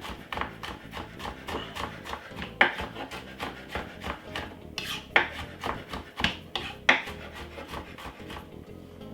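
Garlic being grated: quick rasping strokes, about four a second, with a few louder knocks between them.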